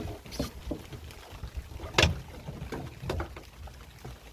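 Handling noises in a small boat as a freshly caught ling, hooked in the mouth and wrapped in line, is worked free: irregular knocks and rustles, with one sharp knock about two seconds in.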